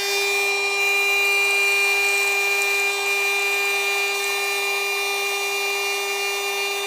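Ariete Moderna espresso machine's pump running steadily as it brews a shot, a steady buzzing hum with a high-pitched tone over it.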